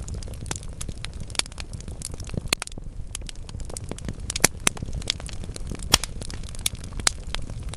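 Wood logs burning in a fireplace: irregular crackling and sharp pops over a low, steady rumble of flame, with a few louder pops about four and a half and six seconds in.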